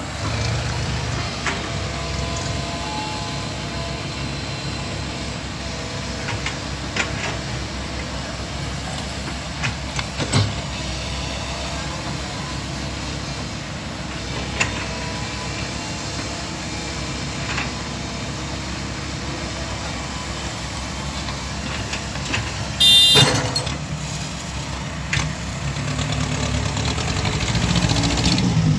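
Komatsu PC128 excavator's diesel engine running steadily under working load, with scattered clanks. There is a brief loud, high-pitched squeal about 23 seconds in, and the engine rises in level near the end.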